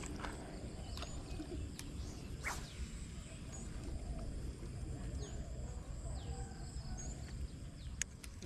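Faint bird chirps and a few short falling whistles over a steady low rumble, with a couple of sharp clicks near the end.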